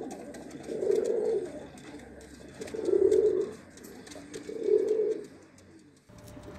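Domestic Shami pigeon cooing: three low coos, each under a second long, about two seconds apart.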